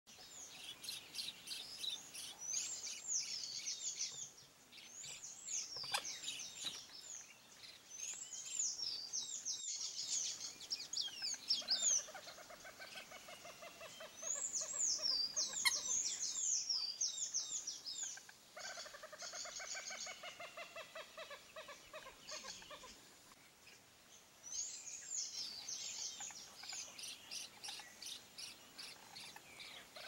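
Wild birds calling: bouts of high, quick chirps that slide up and down, and twice, around the middle, a fast run of lower notes repeated several times a second.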